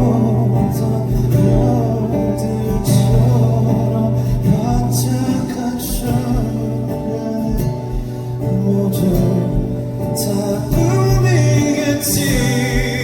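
Live band music for a slow song, with a male voice singing over a steady bass line and guitar.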